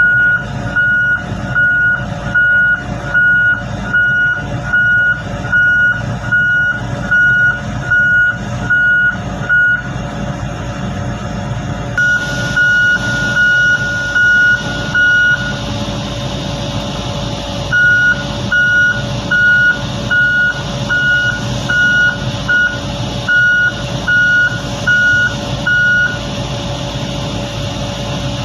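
Reversing alarm on heavy equipment beeping steadily, about one and a half beeps a second, over the steady rumble of a running diesel engine. The beeping stops twice for a couple of seconds and ends a little before the end.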